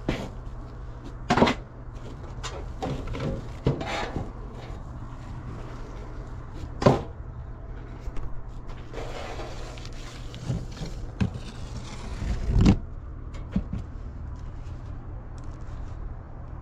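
Objects being rummaged through and knocked about, several sharp knocks and a few seconds of rustling, over a steady low hum.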